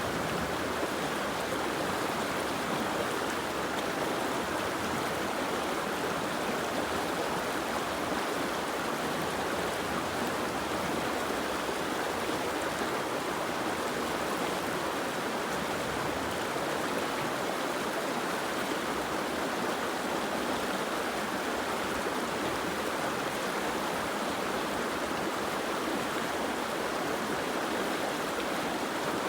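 Steady rushing of water: an even hiss with no single drops or splashes standing out, unchanging throughout.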